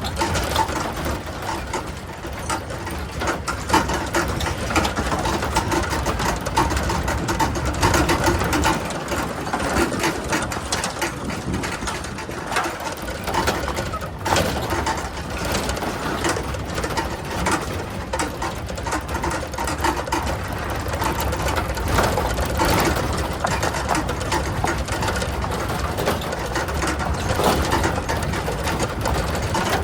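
Continuous mechanical clatter: rapid ticking over a steady low rumble.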